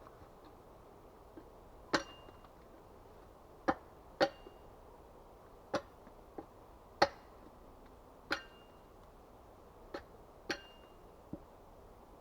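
Axe chopping wood: about ten sharp strikes at an uneven pace, several leaving a brief metallic ring from the axe head.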